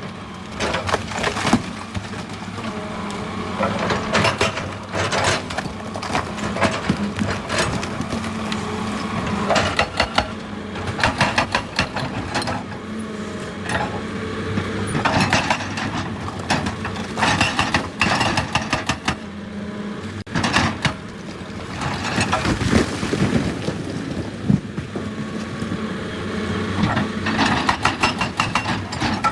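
Excavator at work: its diesel engine runs steadily under many irregular knocks and crunches of rock and earth being dug and broken.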